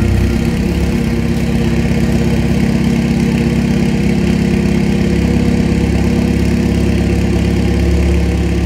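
Toyota 3S-GTE turbocharged four-cylinder engine running steadily at an even, unchanging pitch.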